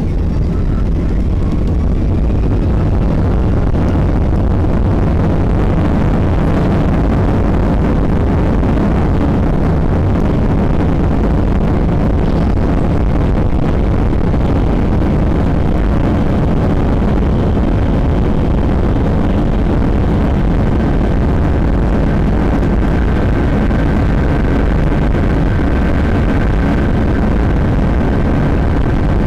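Boeing 757-300's jet engines at takeoff power, heard from inside the cabin as a loud, steady roar over a heavy low rumble. A faint rising whine sounds in the first couple of seconds, and a thin steady high tone joins about two-thirds of the way through.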